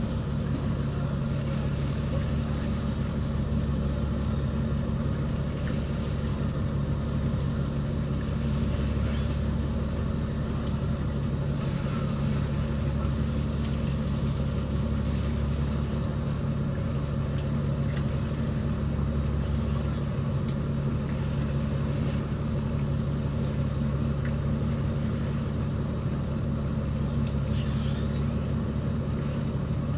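Fishing boat's inboard engine running steadily, a constant low drone that does not change in speed.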